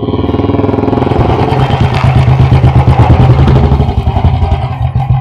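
Royal Enfield Bullet motorcycle riding past, its single-cylinder engine making a fast, deep thumping beat. It is loudest about two to three seconds in and eases off a little toward the end.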